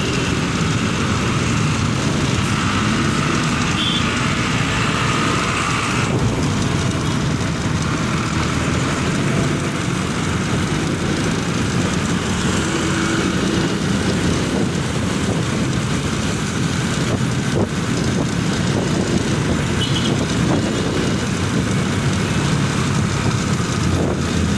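A motorcycle on the move on a road trip: steady, unbroken engine and road noise throughout, with a few faint brief tones over it.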